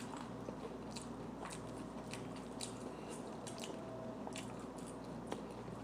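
A person chewing fried chicken, with faint scattered crunchy clicks of biting and mouth noise.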